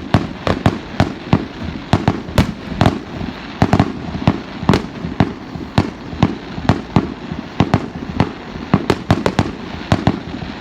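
Aerial fireworks bursting in a rapid, continuous barrage of sharp bangs, about three a second.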